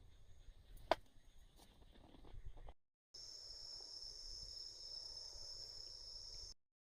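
Crickets singing, a steady high-pitched trill held unbroken for a few seconds. Before it, a single sharp click about a second in.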